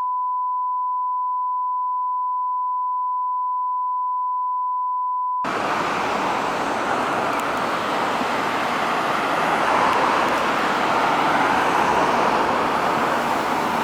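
A steady 1 kHz test tone for about five seconds that cuts off abruptly. It is followed by the running noise inside a 1995 Isuzu U-LV318L route bus under way, engine and road noise together, which grows a little louder about ten seconds in.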